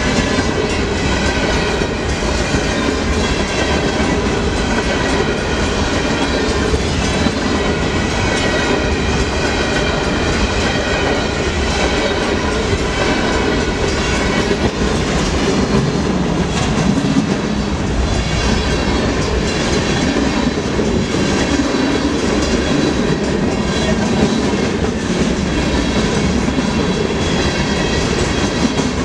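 Freight train rolling past, a steady loud rumble with its wheels clacking over the rails.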